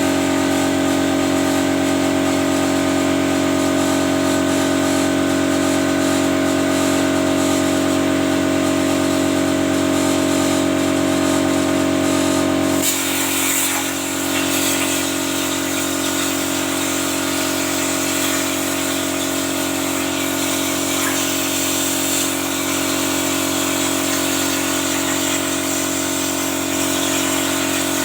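CNC plasma cutting machine running a test cut: a steady hiss with a whine of several steady tones. About thirteen seconds in, the sound changes suddenly as the high hiss and the strongest low tones drop away, leaving a quieter steady whine.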